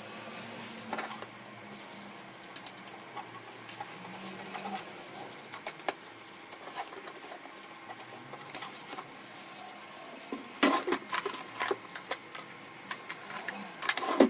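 Irregular light clicks and rattles of small printer parts being handled during a fuser repair, over a faint steady hum. A burst of louder clicks comes about two thirds of the way in, and another near the end.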